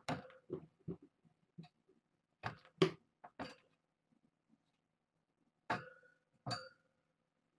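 A scattered series of light knocks and clinks from small hard objects, a few of them with a brief ring.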